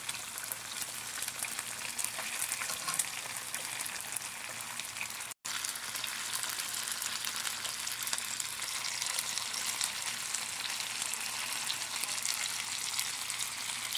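Chicken sizzling and crackling as it pan-sears in teriyaki sauce and oil in a skillet, a steady frying hiss that cuts out for an instant about five seconds in.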